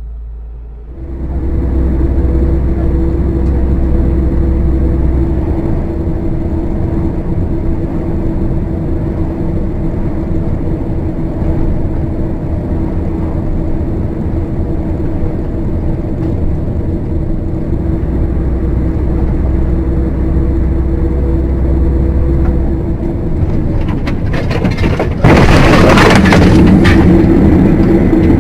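Car on the move: steady engine and road noise with a constant low hum. About 25 seconds in, it suddenly turns louder with a harsh, noisy burst lasting a couple of seconds.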